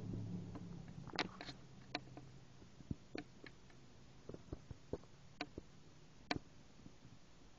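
A bird pecking at a cookie: sharp, irregular taps of its beak, about a dozen over several seconds.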